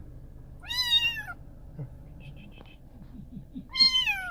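Six-week-old kitten meowing twice, each a high-pitched cry lasting under a second, the first about half a second in and the second near the end.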